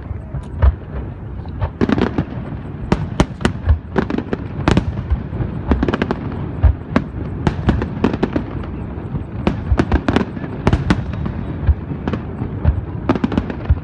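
Aerial fireworks bursting in quick, irregular succession, many sharp bangs a second over a continuous rumble of overlapping explosions.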